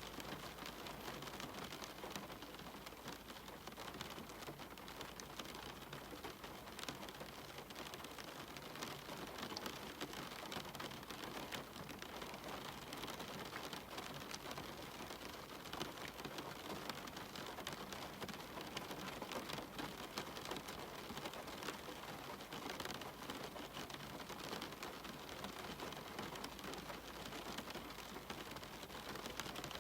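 Steady rain falling, with a dense scatter of small individual drop ticks over an even hiss.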